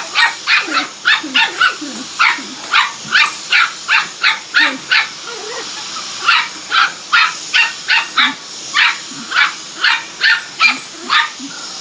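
A dog barking rapidly and repeatedly, two to three barks a second with a short break about halfway, reacting to a Dyson V10 cordless vacuum cleaner whose motor runs underneath with a steady high whine.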